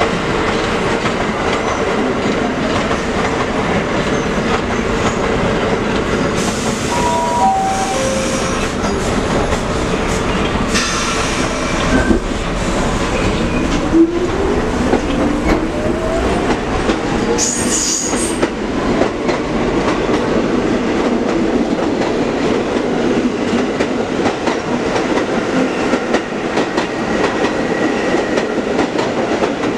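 A train running past on the rails: a steady, loud rumble of wheels with clickety-clack, and a few brief high squeals along the way. A faint rising whine is heard near the middle.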